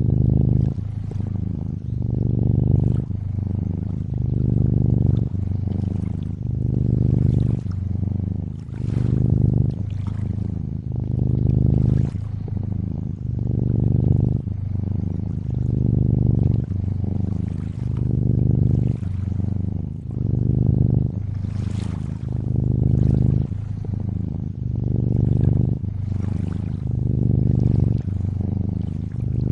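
Domestic cat purring steadily, rising and falling in slow swells about every two seconds with each breath in and out. Water trickles and laps softly underneath.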